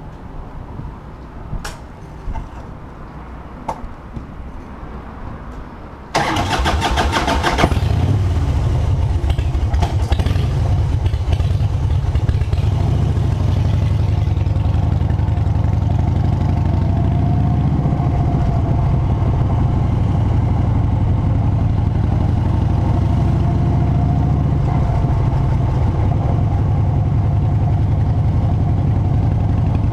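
A few faint clicks, then about six seconds in a motorcycle engine is cranked on its starter for about a second and a half, catches, and settles into a steady idle.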